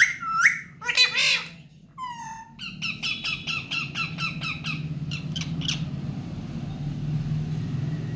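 Pet parrot squawking: a few loud harsh calls in the first second or so, then a fast run of short repeated squawks, about five a second, that trails off around the middle, over a steady low hum.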